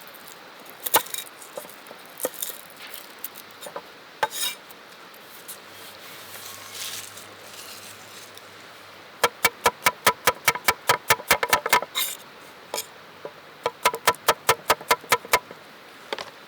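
Food prep with a knife on a cutting board: scattered clicks and knocks, then two runs of quick, even chopping strokes at about six a second. The first run starts about nine seconds in and the second near the end.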